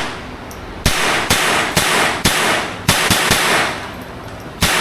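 Handgun fired at a shooting range: a string of loud shots about half a second apart, each with a short echoing tail, then a pause and one more shot near the end.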